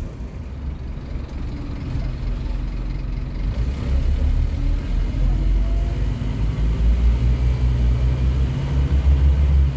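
Scania N230UD OmniCity bus's five-cylinder diesel engine running and growing louder as the bus accelerates, with a deep low drone.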